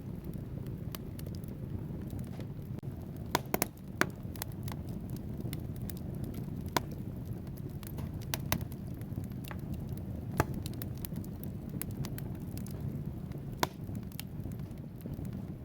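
Wood fire burning in a fireplace: a steady low rumble of flames with irregular sharp crackles and pops from the logs, a quick cluster of loud pops about four seconds in.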